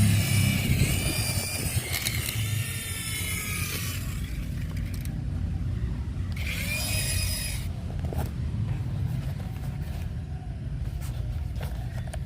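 A radio-controlled toy car's electric motor whining, rising and falling in pitch over the first few seconds and again briefly past the middle, over a steady low rumble of it running over the ground.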